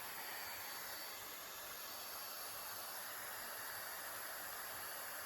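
Steady rushing hiss of air from a budget Dyson-style hot-air hair styler's fan running, even and unchanging.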